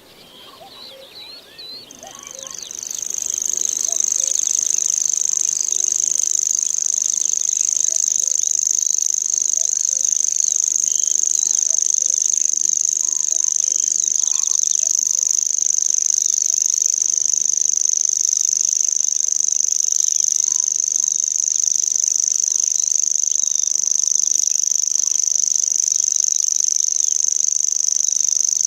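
Common grasshopper warbler reeling: one continuous, high, insect-like trill held without a break. It starts about two seconds in and quickly swells to full strength.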